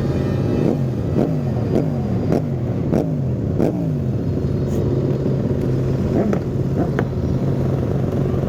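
Many motorcycles running together: a steady engine hum underneath, with engines revving over and over in quick succession, each rev falling back in pitch, for the first four seconds or so.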